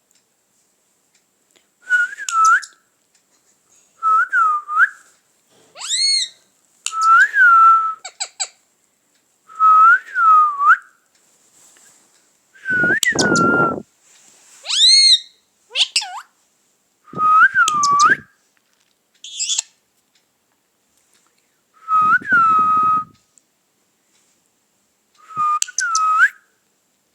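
Pet parrot whistling a short dipping-and-rising whistle over and over, about every two to three seconds, with a few higher, harsher chirps mixed in.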